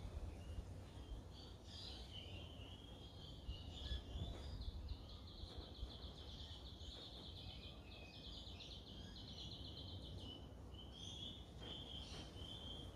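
A bird singing in the background: fast, high chirping trills in phrases, over a low steady rumble.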